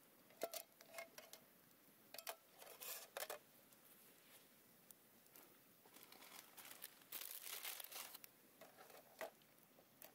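Faint crinkling and rustling in short spells, with a few small clicks, the longest spell lasting about a second past the middle.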